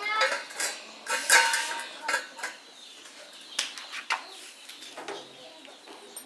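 Metal parts and tools clinking and knocking together in a run of sharp clinks with brief ringing. The clinks are busiest and loudest in the first couple of seconds and come more sparsely after that.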